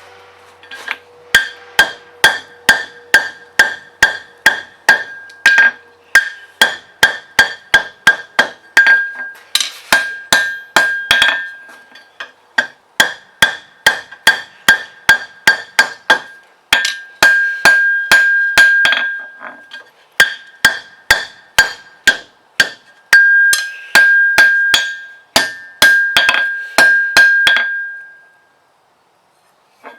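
Forging hammer striking hot steel on an anvil, steady blows about two a second, each with a bright metallic ring. The hammering breaks off briefly a few times and stops near the end.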